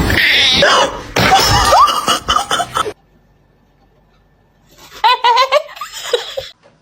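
A person laughing in loud bursts, then again after a short pause.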